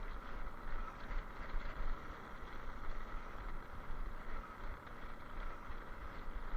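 Wind buffeting the microphone in irregular low gusts over a steady rushing noise, as heard while riding along a trail.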